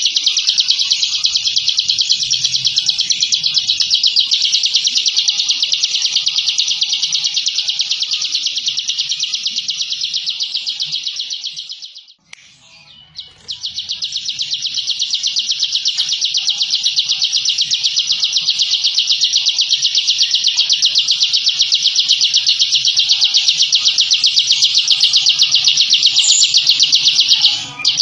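Ciblek (prinia) singing in the 'ngebren' style: a long, dense, very rapid high-pitched trill, kept up with only one break of about a second, about twelve seconds in, and a brief dip near the end.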